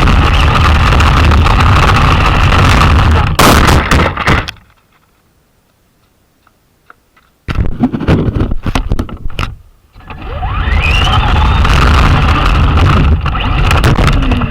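Traxxas Slash RC truck driving, heard loud on its onboard camera: dense rumble and rattle from the wheels and chassis. It stops for about three seconds in the middle, restarts in choppy bursts, then runs on again with the electric motor's whine rising as it speeds up.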